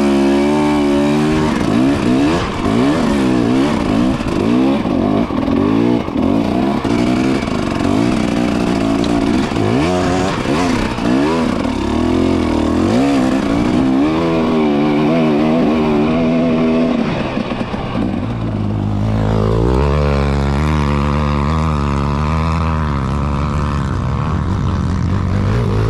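Motorcycle engine running under way, its pitch wavering up and down with the throttle, dropping and then climbing again about three-quarters of the way through.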